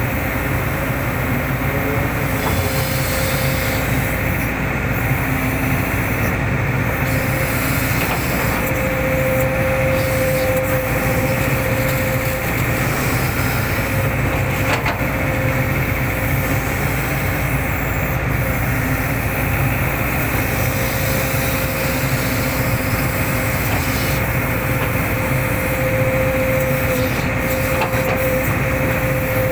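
Hitachi hydraulic excavator running steadily under work, with a whine that fades in and out several times and a few faint knocks.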